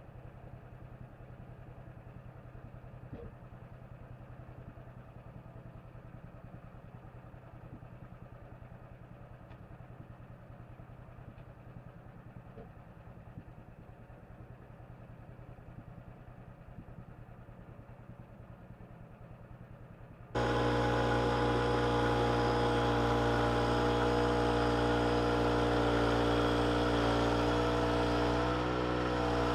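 An engine running low and steady, then about twenty seconds in the sound jumps suddenly to a much louder, steady engine drone with many even tones.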